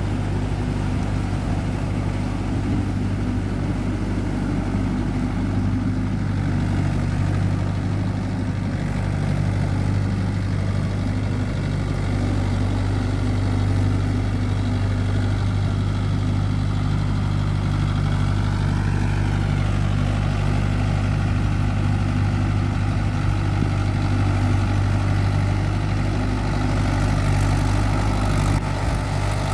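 Mahindra Yuvo Tech+ 585 tractor's three-cylinder diesel engine running steadily at an even speed.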